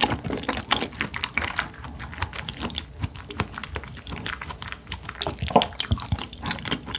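Close-miked eating sounds: a rapid run of small wet mouth clicks and smacks from chewing.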